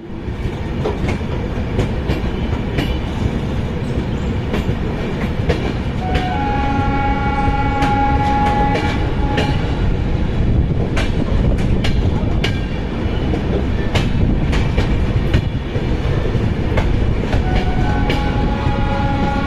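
Train running on the rails, with steady rumble and irregular clicks of wheels over rail joints. A horn sounds for about three seconds some six seconds in, and again near the end.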